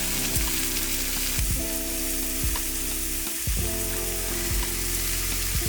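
Food sizzling and spitting in a hot pan as a steady hiss, with scattered crackles and pops, over soft background music.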